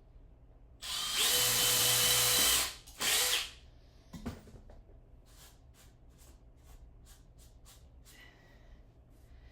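Handheld power tool running in two bursts, one of about two seconds and a short one just after, then a thud and a run of light clicks.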